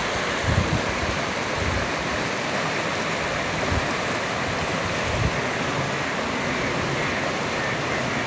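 Steady rush of fast-flowing water, a waterfall or mountain stream, with a few brief low thuds.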